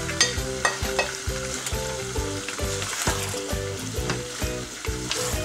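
Chicken, bell peppers and onions in a thick sauce sizzling in a non-stick wok while a wooden spatula stirs them. The spatula scrapes and knocks against the pan in irregular clicks.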